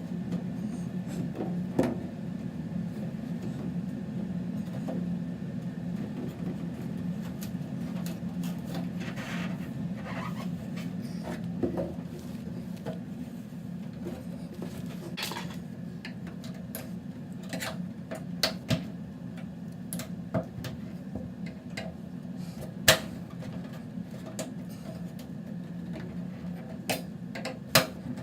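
Scattered small clicks and taps of metal trim clips being slid and snapped onto an aluminum belt-trim strip, with a few sharper clacks in the second half. A steady low hum runs underneath.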